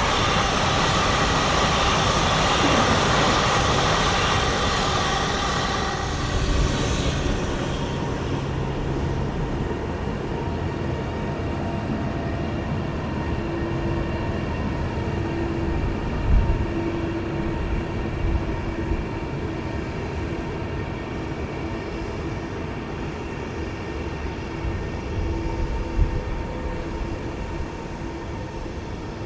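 Train passing on the line: loud rushing wheel-and-rail noise for about the first six seconds, then easing to a quieter steady hum with a few thin tones. There are brief knocks about halfway through and again near the end.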